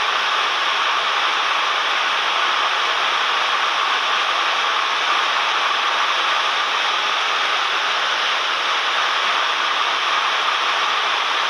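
Steady rushing cabin noise of a Cessna 172M light aircraft in flight: an even hiss of engine, propeller and airflow with no change in level.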